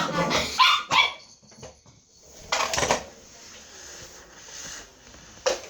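Dog barking in several short bursts, with gaps between.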